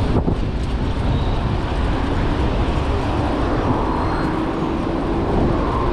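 Wind rushing over the microphone of a moving bicycle, with city traffic noise around it. A steady hum from a nearby vehicle joins about four seconds in.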